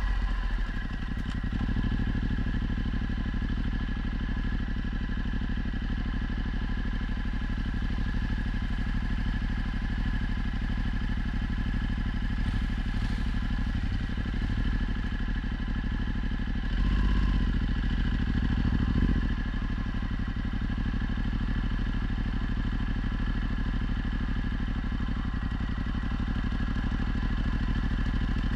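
Ducati Multistrada 1260's V-twin engine running steadily through a Termignoni exhaust, holding an even pitch, with a brief swell in level twice about two-thirds of the way in.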